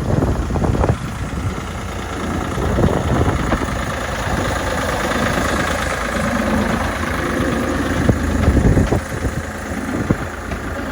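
Miniature railway locomotive's engine running steadily.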